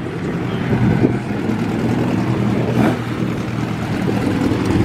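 Race car engine running at low revs as the car rolls slowly past, a steady deep rumble.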